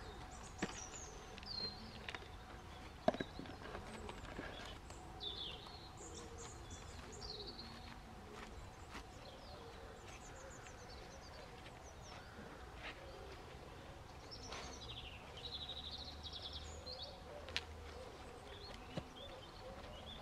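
Small birds chirping and trilling on and off in short phrases, over a faint steady background hum, with a few soft knocks and rustles as soil is handled during planting.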